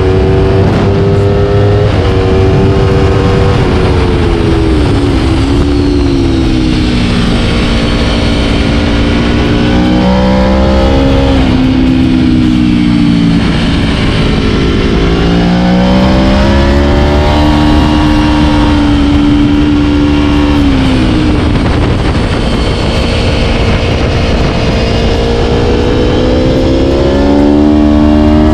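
Aprilia Tuono V4 1100's V4 engine ridden hard on a race track, its note repeatedly rising and falling as it accelerates and slows through corners, with a few sudden jumps in pitch.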